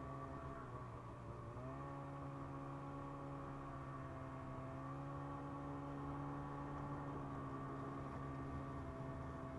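Snowmobile's carbureted 600 two-stroke twin running at a steady cruise. Its pitch dips briefly about a second in as the throttle eases, then climbs back and holds steady.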